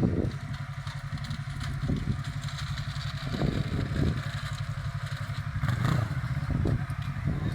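A motor vehicle engine running steadily with a low, rapid pulse, with a few louder swells as traffic goes by.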